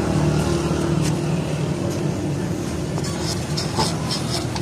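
A motorcycle engine running steadily.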